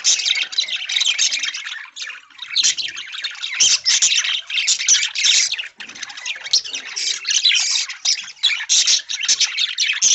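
A flock of budgerigars chattering, a dense stream of many overlapping high chirps and calls that dips only briefly about two seconds in and again near six seconds.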